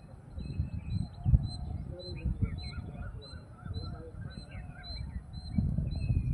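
Birds chirping, with one high note repeating evenly about two to three times a second and short varied calls around it, over a louder uneven low rumble.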